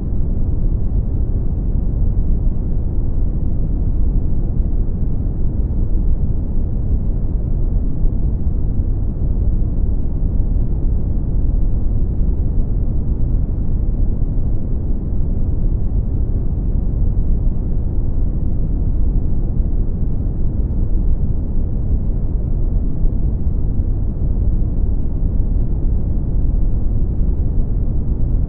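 Brown noise: a steady, deep rumble of random noise, heaviest in the bass and falling off in the treble, with no change or events.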